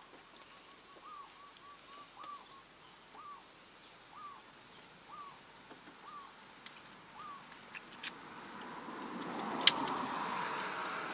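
A bird calling a short rising-and-falling note about once a second, repeated about eight times. Near the end a rustling noise swells and one sharp click sounds.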